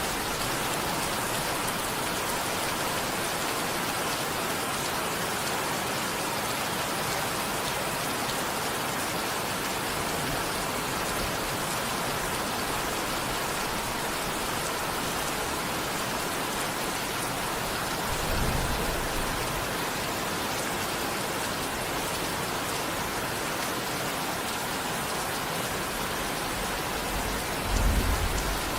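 Steady rain falling, an even hiss, with two brief low rumbles, one a little past the middle and one near the end.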